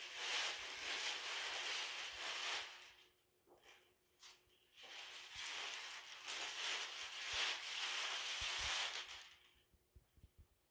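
Packaging material being handled while a large TV is unpacked: a dry rustling and scraping hiss in two long stretches, with a brief rustle between them.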